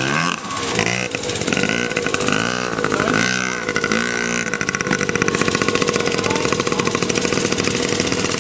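Dirt bike engine being revved in about five quick throttle blips, pitch rising and falling each time, then held at a steady speed for the last few seconds.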